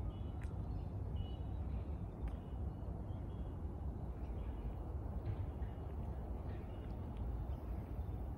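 Outdoor birdsong: short, high bird calls repeating every second or so over a steady low rumble picked up by the walking, handheld microphone, with a few faint clicks.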